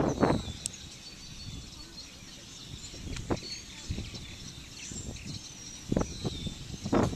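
Faint bird chirps over a quiet outdoor background, broken by a few dull knocks, one just after the start, two about three and four seconds in, and one near six seconds.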